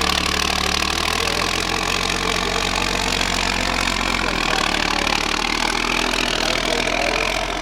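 Diesel engine of a 6x6 MAN trial truck running at a fairly steady pitch.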